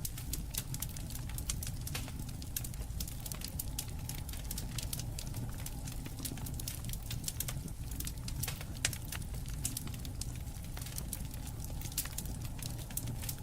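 Wood campfire burning, crackling with many sharp, irregular pops and snaps over a steady low rumble.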